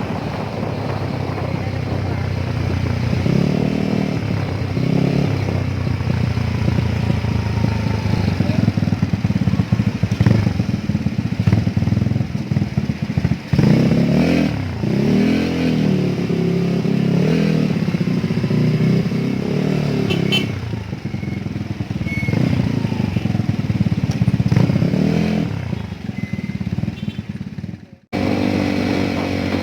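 Motorcycle engine running while riding, its pitch rising and falling repeatedly as the throttle is opened and eased off. Near the end the sound cuts off abruptly.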